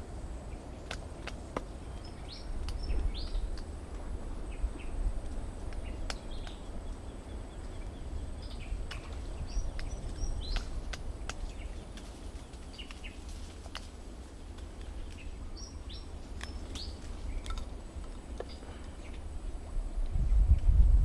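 Birds chirping in short scattered calls over a steady low rumble, with a few sharp clicks; the rumble grows louder near the end.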